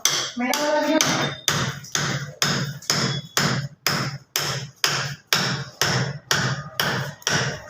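Hammer striking at a steady pace, about two sharp blows a second, as tiles are knocked loose.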